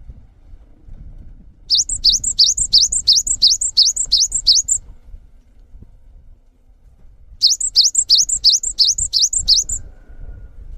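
Songbird singing two phrases of rapid, repeated high whistled notes, each note sweeping upward, about four notes a second, with a pause of a few seconds between the phrases.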